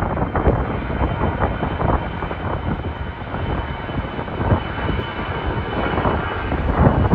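Jet airliner departing under takeoff power: a steady, loud engine rumble with a thin high whine on top.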